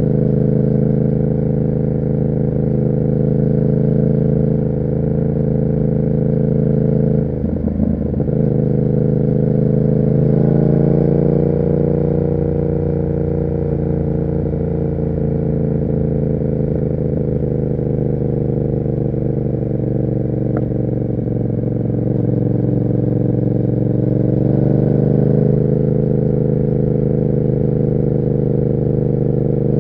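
Yamaha MT-07's 689 cc parallel-twin engine running through an SC Project exhaust under way. The note breaks briefly about seven seconds in, then climbs, sinks slowly, and climbs again near the end.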